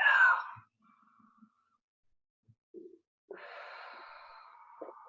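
A person breathing audibly: a breathy sigh at the start, then a long, drawn-out breath from just past the halfway point to the end.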